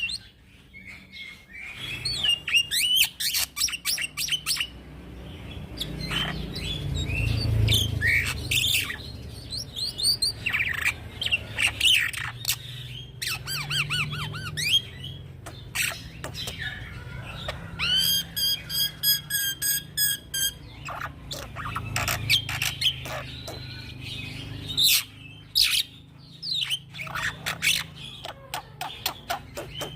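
A young black-winged starling singing a long, varied song of whistled chirps, pitch glides, harsh squawks and sharp clicks, with a rapid buzzy trill about eighteen seconds in. A steady low hum runs underneath.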